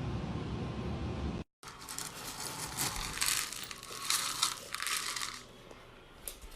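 Irregular crinkling and rustling noises in bursts, starting just after an abrupt cut and fading near the end.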